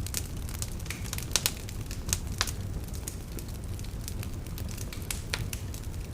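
Wood fire crackling and popping, irregular sharp snaps over a steady low rumble, the loudest pops coming in the first two and a half seconds.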